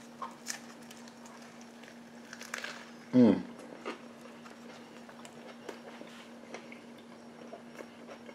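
A person chewing a mouthful of cheeseburger: faint, scattered wet clicks and crackles, with one short, loud "mm" of the voice falling in pitch about three seconds in. A steady low hum runs underneath.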